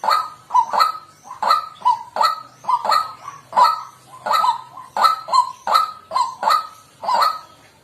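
White-breasted waterhen calling: a rapid, steady series of repeated notes, about three a second, many dipping slightly in pitch.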